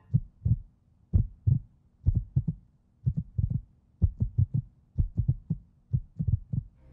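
Heartbeat-style low thumps in the soundtrack, beating in pairs and small clusters with short gaps between them: a suspense sound effect.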